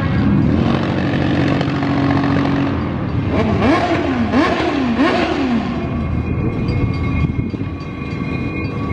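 Train running by with a steady rumble and a pitched whine that rises and falls about three times a few seconds in.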